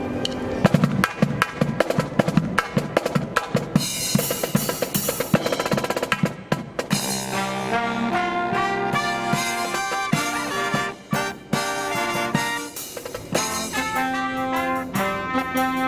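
Brass marching band: snare and bass drums play a fast drum passage, then the brass section comes in with sustained chords about seven seconds in.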